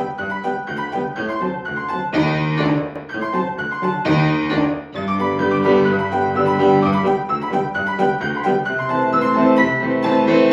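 Piano played four hands at a very fast tempo, with dense, continuous runs and chords.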